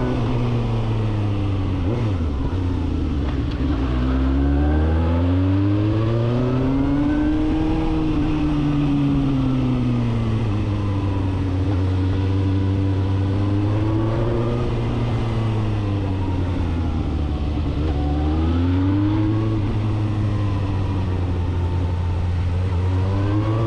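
Suzuki GSR750 inline-four engine on the move through a full 4-into-1 exhaust. Revs climb and drop repeatedly, falling a few seconds in, around ten seconds, around sixteen seconds and near the end, each time before rising again.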